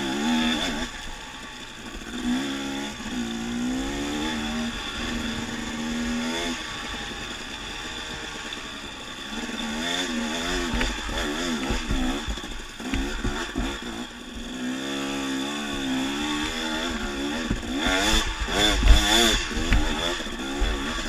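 Dirt bike engine running on a trail ride, its pitch rising and falling as the throttle is worked. There are louder, rougher bursts of rumble near the end.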